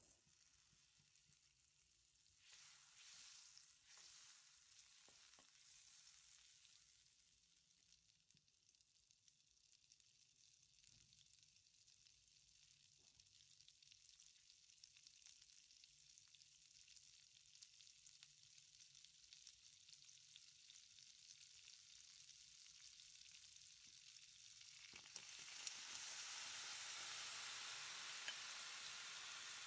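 Butter sizzling faintly as it melts in a hot pan. About 25 seconds in, diced mixed vegetables (carrots, peas, corn) go into the melted butter and the sizzling gets louder.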